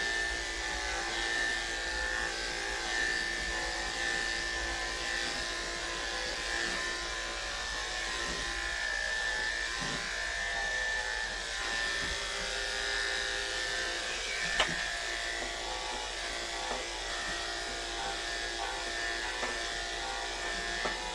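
Andis electric pet clippers running with a steady buzz as they shave through heavily matted cat fur close to the skin. A single sharp click about two-thirds of the way through.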